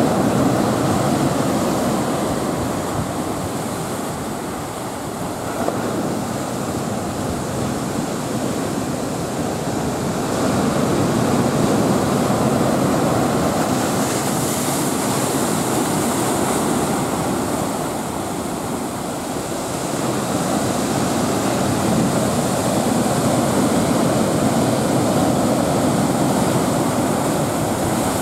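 Rough sea whipped up by a typhoon swell: a steady rush of breaking surf that swells and eases several times as sets of waves come in.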